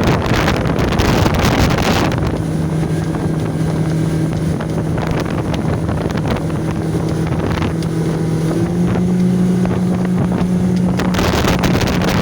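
A 115 hp outboard motor pushing an 18-foot Sea Fox boat, running steadily under way, its pitch stepping up slightly about two-thirds of the way through. Wind buffets the microphone at the start and again near the end.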